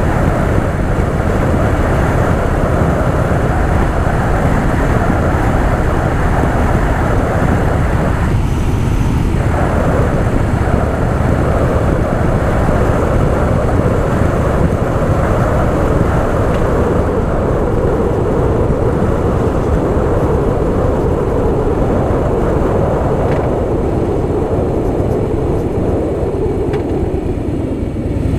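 Harley-Davidson Softail Fat Boy V-twin running as the bike is ridden along, mixed with steady wind rush on the mic. Near the end the engine sound drops lower.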